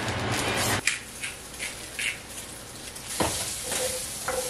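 Asparagus sizzling in a frying pan, a steady hiss that is louder for the first second. A utensil knocks sharply against the pan twice, a little after three and four seconds in.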